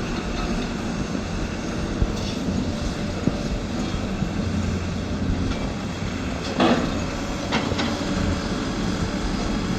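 Steady low rumble of engine noise, with a few knocks and a brief louder burst of noise about six and a half seconds in.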